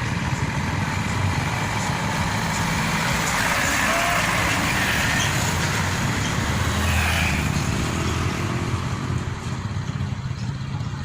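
Heavy diesel engine of farm machinery running steadily, a low hum with a broad mechanical rush over it.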